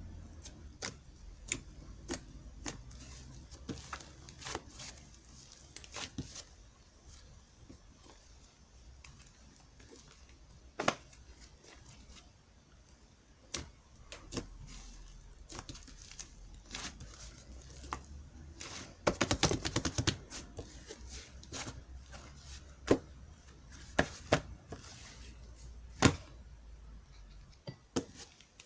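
Soft, fluffy slime being pressed and stretched by hand, giving irregular sticky clicks and small pops, with a dense run of crackling about two-thirds of the way through.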